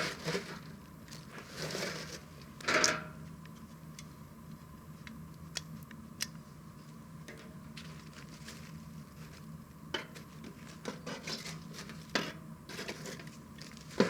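Wood fire burning with irregular crackles and sharp pops, with a louder burst of crackling about three seconds in and a cluster of snaps near the end.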